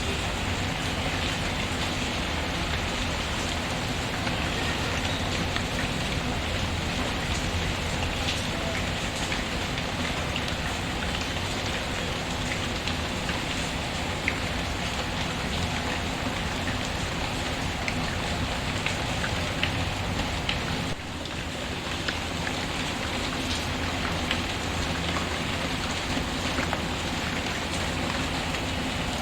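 Steady rain falling on a surface, with scattered small crackles from a wood fire. The sound dips briefly about two-thirds of the way through.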